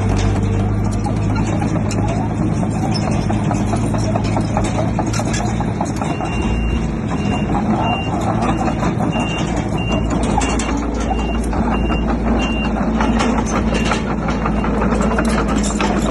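Crawler bulldozer's diesel engine running under load, with the steady clatter of its machinery. From about six seconds in, a reversing alarm beeps about one and a half times a second for several seconds.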